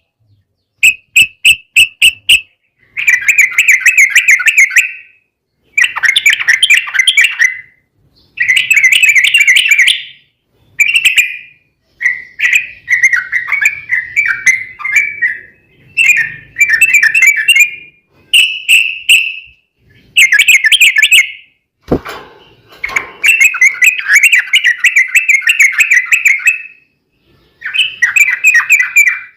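Yellow-vented bulbul (trucukan) singing in long, rapid bubbling phrases, each one to three seconds long with short pauses between, repeated again and again. A single sharp knock comes about two-thirds of the way through.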